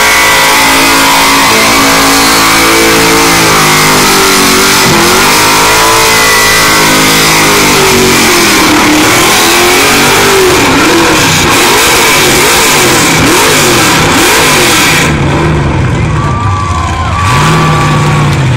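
Holden van's engine revved hard through a burnout, very loud, over the hiss of spinning tyres. The revs are held high at first, then rise and fall again and again. Near the end the tyre hiss falls away and the engine drops to a lower, steadier note.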